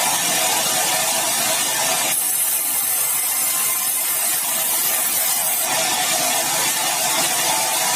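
Sawmill saw cutting through meranti timber: a steady, loud hissing rush of sawing noise with a faint whine underneath.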